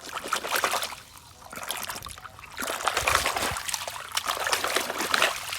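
Water splashing and trickling as a small toy vehicle is shaken in water, in two spells: briefly at the start, then again for most of the rest.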